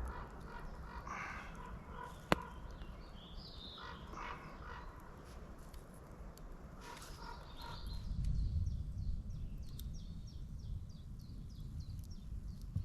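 Wild birds calling: a few harsh calls in the first half, then a run of quick high chirps repeating over the last few seconds. One sharp crack about two seconds in, and a low rumble swelling around eight seconds.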